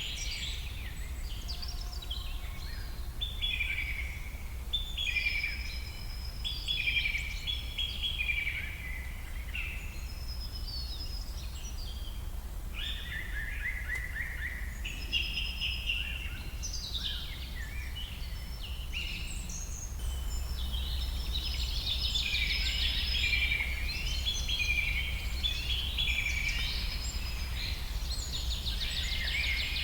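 Birds singing and calling, many short phrases one after another and busiest in the last third, over a steady low rumble.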